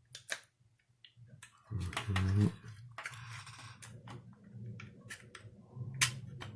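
Sharp plastic clicks and taps as the snap-clip cover of a Toyota clock spring is handled and pried at, coming thicker in the second half. A short vocal sound comes about two seconds in.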